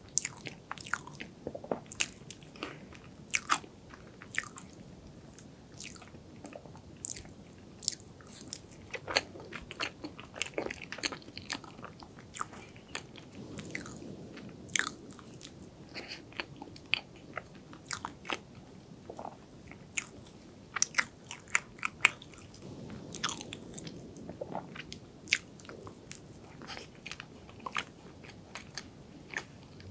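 Close-miked chewing of dense chocolate cream cheese cake, with many short sharp clicks throughout.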